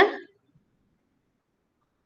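The trailing end of a single spoken word, "Clear?", dying away within the first quarter second, followed by near silence.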